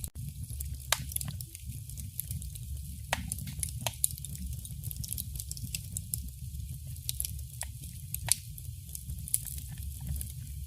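Wood fire burning in a fireplace: a steady low rumble with scattered sharp crackles and pops, a few standing out louder about one, three, four and eight seconds in.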